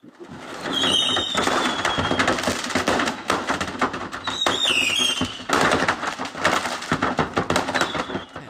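Dense, rapid crackling and popping, with a short high whistle about a second in and another, falling in pitch, around four and a half seconds in.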